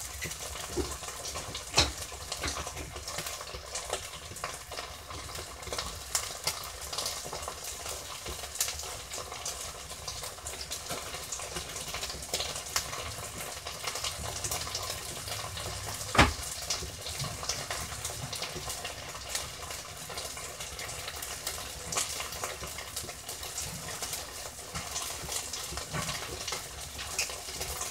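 Buffalo chicken and onions in butter-based hot sauce sizzling and crackling steadily in a skillet on a gas burner while cheese melts over them. Two sharp knocks of kitchenware, one about two seconds in and one about halfway.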